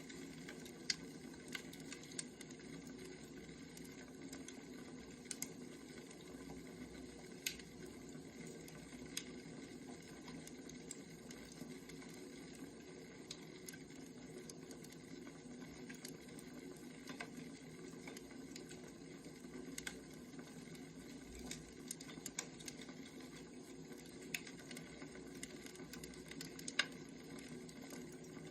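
Wood fire crackling: irregular sharp pops and snaps over a low, steady rush, with one louder pop near the end.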